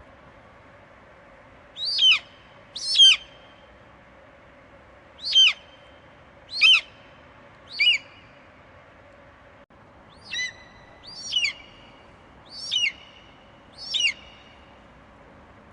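Eagle screeching: nine short, high calls, each falling sharply in pitch, spaced one to two seconds apart over a faint steady hiss.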